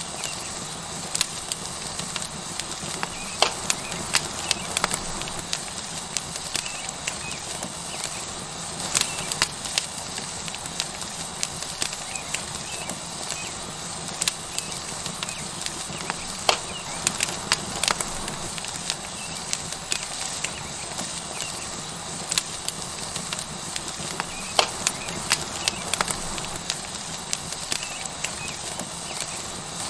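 Tomahawk steak sizzling on a hot rock over a wood fire: a steady hiss with frequent sharp, irregular crackles and pops from the burning wood.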